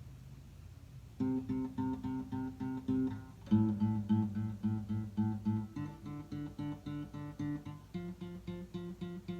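Acoustic guitar playing a song's introduction: chords strummed in a steady rhythm, starting about a second in, with the chord changing three times.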